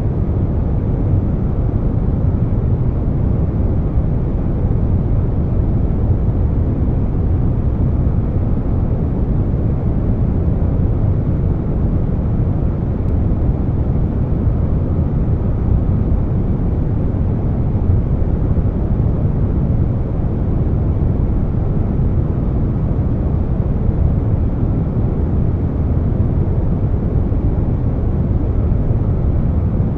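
Air conditioner running steadily, layered with brown noise: an even, deep hiss weighted to the bass, unchanging throughout.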